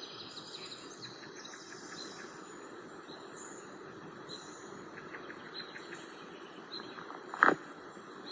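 Forest ambience: a steady insect trill with scattered bird chirps over a soft background hiss. A short louder bump near the end.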